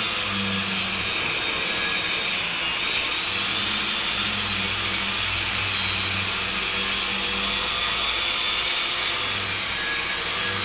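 Steady, loud hissing machine noise with a low hum underneath that swells and fades every second or two.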